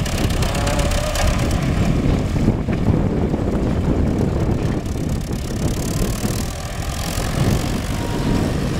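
Belarus MTZ-5 tractor's diesel engine running steadily while driving a hay baler.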